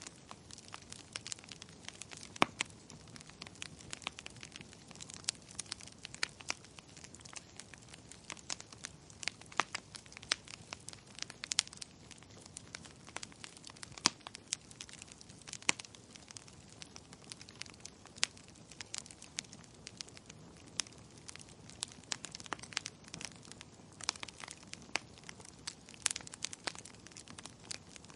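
Wood fire crackling in a fireplace: irregular sharp pops and snaps, several a second, with a few louder pops, over a soft steady hiss.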